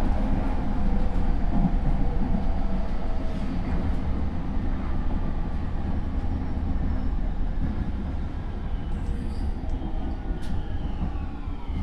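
JR East E231 series electric train's Hitachi IGBT inverter and traction motors running, heard from inside the motor car over the rumble of the wheels. The whining tones slowly fall in pitch as the train slows, dropping more steeply near the end.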